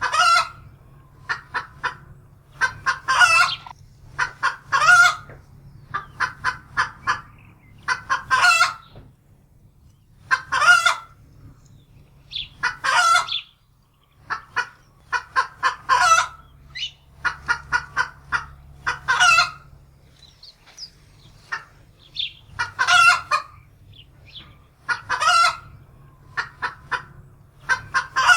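Domestic hen cackling in alarm: quick runs of clucks, each building into a longer, louder squawk, repeated every two to three seconds.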